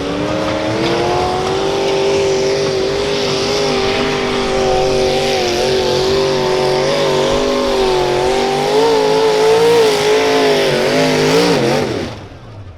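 Mini modified pulling tractor's engine held at high, steady revs during a pull, its pitch wavering in the last few seconds, then falling away as the throttle is closed near the end.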